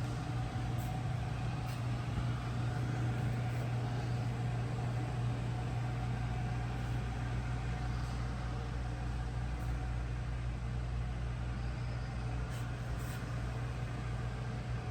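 1968 Chevrolet Camaro SS race car engine idling steadily with a deep, even hum.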